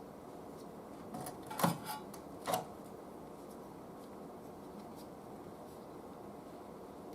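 A few sharp clicks and knocks of small hard objects being handled on a workbench, about four in the first few seconds, the loudest near the middle of them, followed by a faint steady hiss.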